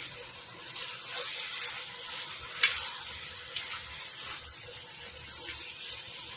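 Pork sizzling in a hot metal pot as a spoon stirs it, with a sharp clink of the spoon against the pot about two and a half seconds in and a lighter one about a second later.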